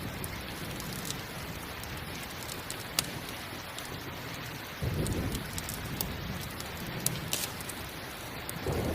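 Steady rain with low rumbles of thunder about five seconds in and again near the end. A few sharp, isolated crackles of a campfire sound over the rain.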